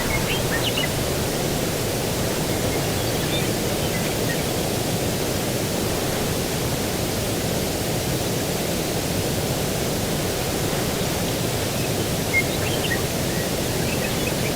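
Outdoor ambience: a steady low rushing of breeze and distant ocean surf, with a few faint high bird chirps in the first second and again near the end.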